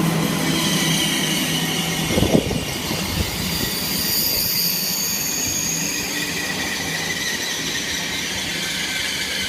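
Eurostar Class 373 train running into the platform, its brakes and wheels giving a high squeal of several held tones as it slows. There is a short knock about two seconds in.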